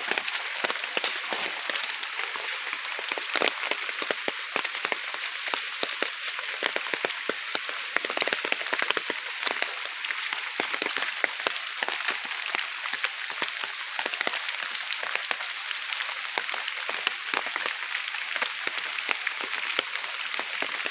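Heavy rain falling steadily: a dense hiss full of the fine patter of countless drops.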